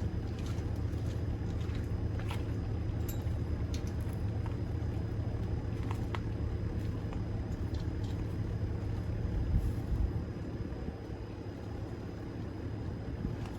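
A car's steady low engine and road rumble, with a few faint clicks, easing off slightly after about ten seconds.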